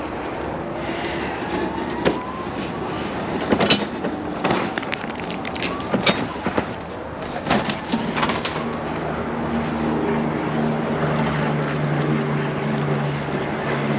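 Several sharp knocks and clanks, then from about eight seconds in a vehicle engine running steadily with a low hum.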